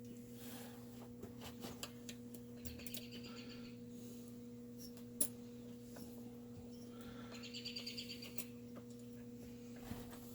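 Steady low electrical hum with scattered small clicks from parts being handled, one sharper click about five seconds in, and two brief clusters of high-pitched chirps, about three seconds in and again near eight seconds.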